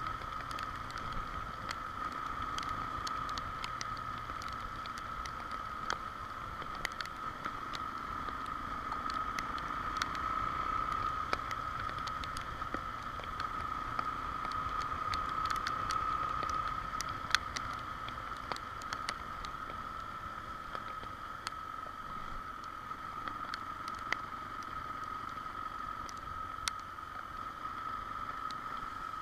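Riding noise from a motorcycle on the move in the rain: a steady rush with a constant high tone, broken by frequent sharp ticks of raindrops striking the microphone.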